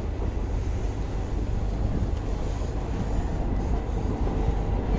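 Train running along the track, heard from on board: a steady low rumble of wheels and carriage with no sharp events.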